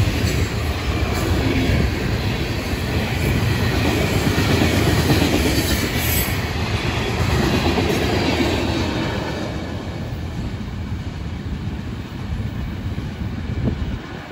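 Loaded freight cars of a Florida East Coast Railway rock train rolling past on the rails. The rumble fades about two-thirds of the way through as the last car goes by and the train pulls away.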